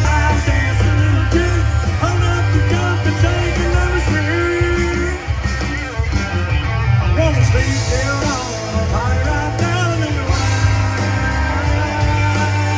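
Live country music from a concert band: electric guitar and heavy bass, with singing.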